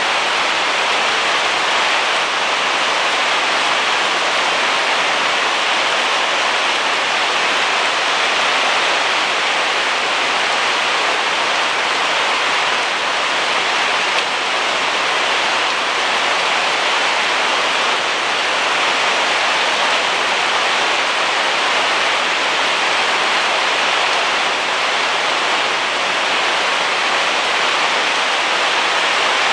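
Heavy rain falling, a steady dense hiss that holds level without a break.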